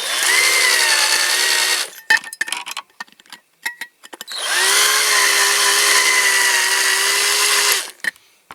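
Cordless drill running in two bursts, about two seconds and then three and a half seconds, with a steady whine and a few clicks between them, drilling out a rivet on a diecast metal toy.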